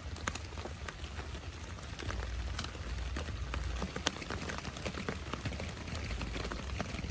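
Heavy rain falling, with many individual drops ticking sharply against a steady hiss and a low rumble underneath.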